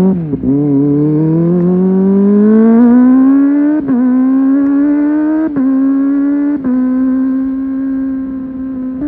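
Kawasaki ZX-25R SE's 250 cc inline-four engine running under way, its high-pitched note climbing slowly for about four seconds, then holding nearly steady. The note dips briefly four times, near the start and around four, five and a half and six and a half seconds in.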